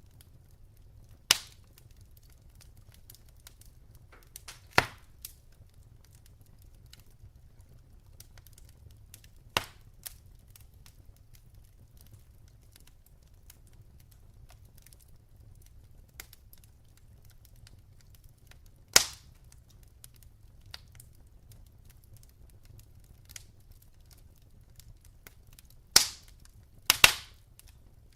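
Wood logs burning in a fireplace, crackling softly with sharp pops every few seconds, two of them close together near the end, over a low steady rumble.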